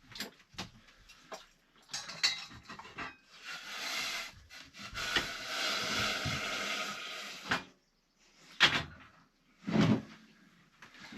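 Knocks and clatter of objects being handled, then a few seconds of steady rushing noise that stops abruptly, followed by two separate thumps.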